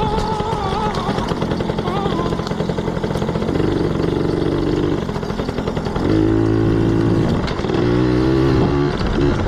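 Yamaha PW80 dirt bike's small two-stroke single-cylinder engine running under way, its pitch rising and falling with the throttle and held steady for a second or so twice in the second half.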